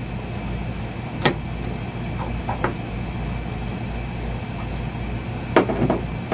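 Steel parts of a hydraulic bead breaker cylinder clicking as they are handled: a sharp click about a second in, a fainter one a little later, and two close together near the end, over a steady low hum.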